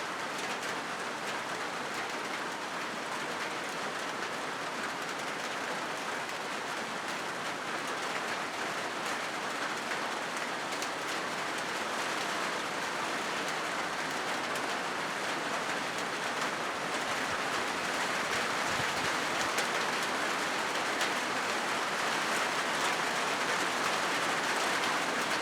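Rain falling on a corrugated zinc roof, a steady dense patter of drops that grows slowly louder.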